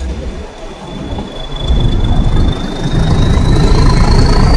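Nilgiri Mountain Railway (Ooty toy train) carriages running on the rails, with a low rumble that swells about two seconds in and a thin, steady wheel squeal that slowly rises in pitch.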